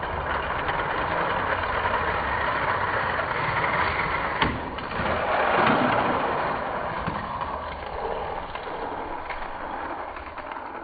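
Two Hot Wheels diecast cars rolling at speed down a plastic racing track, a steady rolling rumble with a sharp click about four and a half seconds in, fading near the end as they finish.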